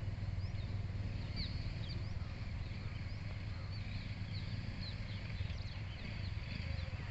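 A motorcycle engine idling with a steady low hum, while many birds chirp in quick, short calls throughout.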